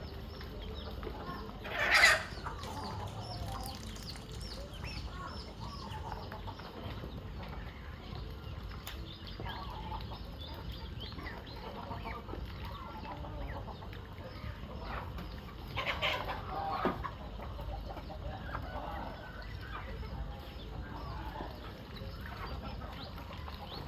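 Chickens clucking steadily, with two louder, sharper calls standing out: one about two seconds in and another about two-thirds of the way through.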